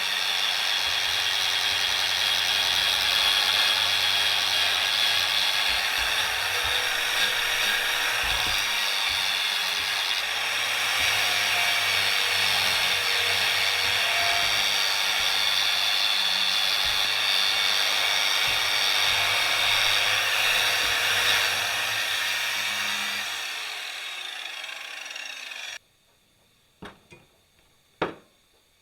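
Power tool working 3 mm steel: a loud, steady, harsh machining noise whose motor pitch wavers slightly under load. Near the end it winds down with a falling pitch and stops abruptly, followed by a few sharp knocks.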